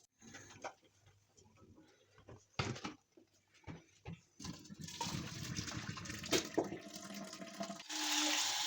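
A few light knocks and clatters, then water running steadily from about halfway in, getting louder near the end, like a tap running into a sink.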